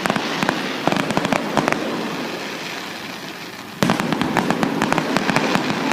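Fireworks display going off: rapid sharp cracks and pops over a steady rumble of bursts. A new volley starts suddenly about four seconds in, louder, with a dense run of crackling.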